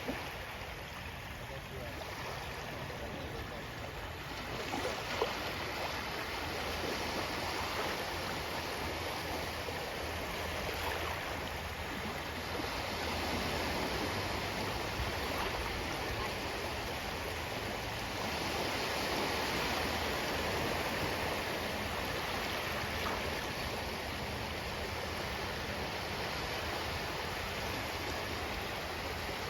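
Ocean surf washing in, a steady rush that swells and eases slowly as the waves come and go.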